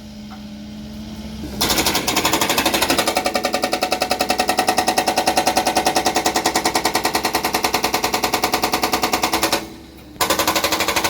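Construction machinery hammering loudly and rapidly, about ten blows a second, typical of a jackhammer breaking up ground; it starts about a second and a half in, stops briefly near the end, then starts again.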